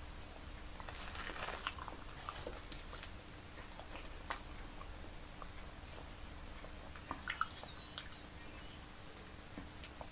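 Close-miked chewing and mouth sounds of a person eating a banana. In the second half, several sharp clicks and crackles come from a plastic water bottle being handled and its cap twisted off.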